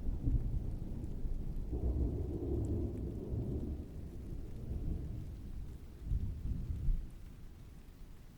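Rolling thunder rumbling deep and low, swelling several times and fading away near the end, over a faint steady hiss of rain.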